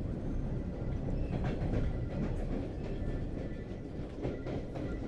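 Subway train running on the track: a steady low rumble with a faint high squeal and a few light clicks and rattles.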